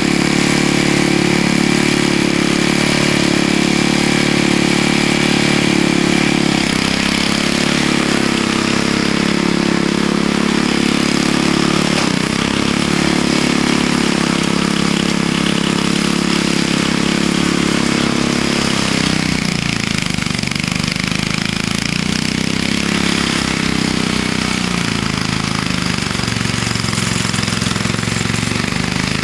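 Vintage Snow Bird snowblower's engine running loud and steady under load as it digs into hard ice-packed snow, with a hiss of churning snow over it. About two-thirds of the way through, the engine pitch drops as it bogs down in the ice pack and then recovers, and it sags again briefly soon after.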